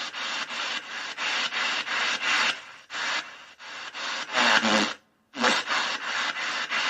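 Rhythmic scratchy rasping noise in repeated strokes, about three a second, cutting out completely for a moment about five seconds in before resuming.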